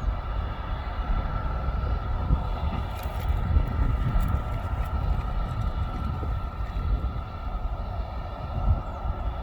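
Aircraft engine running steadily: a constant whine over an uneven low rumble.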